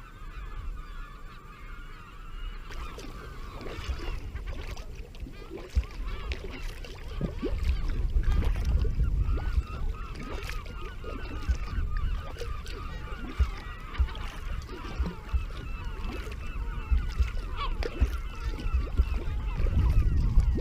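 A flock of birds calling over one another continuously, many short wavering calls at once. Under it is a low rumble with knocks that grows louder about seven seconds in.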